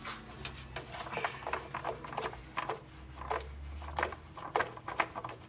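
Oil filler cap being unscrewed and lifted off the engine: a scattered series of small clicks and knocks from handling the cap.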